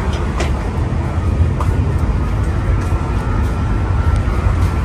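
Steady low rumble of a train, with a few light clicks and a faint thin whine partway through.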